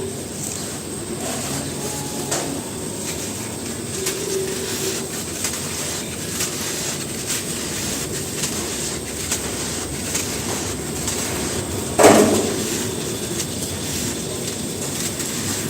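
Dry cement crumbling and crunching, a steady stream of small crackles and grinding. One sharp, louder crack about twelve seconds in.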